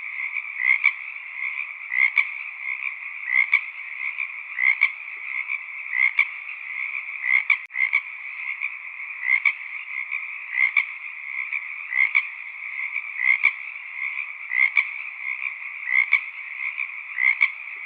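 Frog chorus: a steady massed calling, with one louder call repeating evenly about every second and a half.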